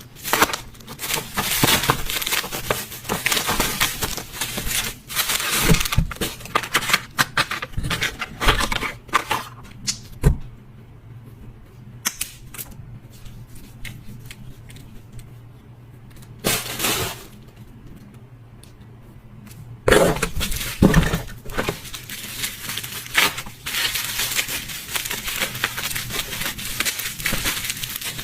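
Close handling sounds of household items and packaging: irregular rustling, crinkling and sharp clicks and taps, with a quieter pause in the middle.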